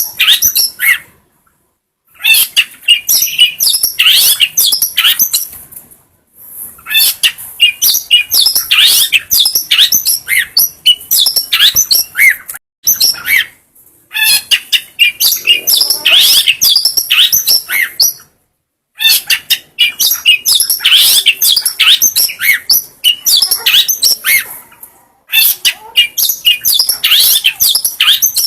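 Long-tailed shrike (cendet) singing a rapid, dense stream of high chirps and warbled phrases in runs of several seconds, broken by brief silences.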